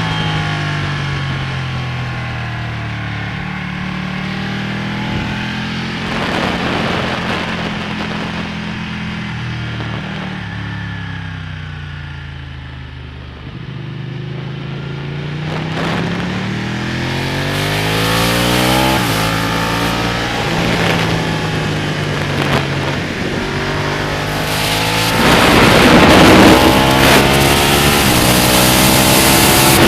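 Ducati Panigale's V-twin engine on a racetrack, revving up through the gears and falling back as it slows for corners, with wind rushing over the bike. The engine drops in pitch around the middle, then climbs again and is loudest, with the most wind, near the end.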